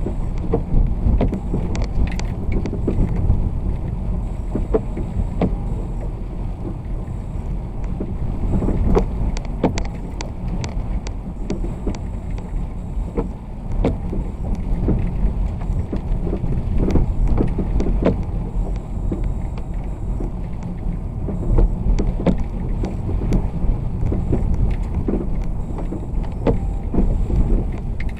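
Vehicle driving on wet roads in the rain: a steady low rumble of engine and tyres, with scattered irregular clicks and taps throughout.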